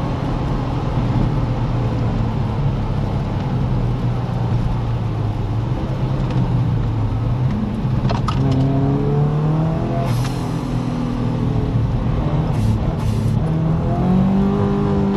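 Car engine heard from inside the cabin during a hard track lap: running at high speed, dropping away as the car brakes for a corner about halfway through, then rising in pitch twice as it accelerates out, with a few short crackles along the way.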